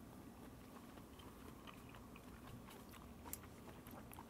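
Faint mouth sounds of someone chewing a piece of sweet pickled watermelon rind, with a few soft clicks, the sharpest a little over three seconds in.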